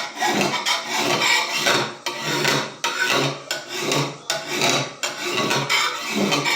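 An old rasp filing the edge of a garden hoe in repeated rasping strokes, about two a second, sharpening the blade.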